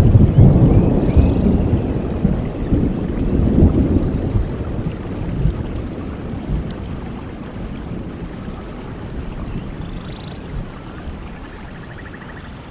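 Steady rain with a rolling rumble of thunder. The thunder is loudest at the start and dies away over the first several seconds, leaving the rain.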